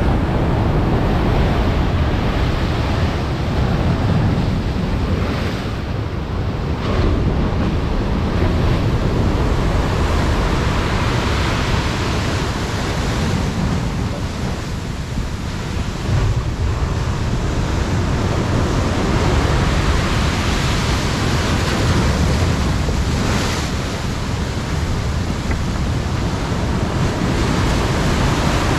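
Storm surf on the sea, a steady heavy wash of breaking waves, with wind buffeting the microphone and adding a low rumble.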